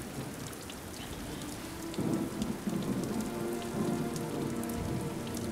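Steady rain falling, with small drop ticks throughout. About two seconds in a low rumble swells up under it.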